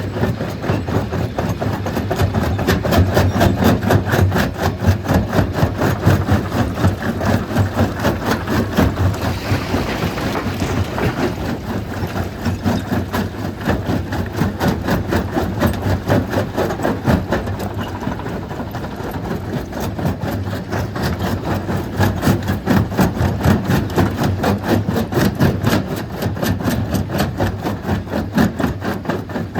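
Stone crushing machine running steadily, a loud, rapid, even pulsing clatter over a low hum.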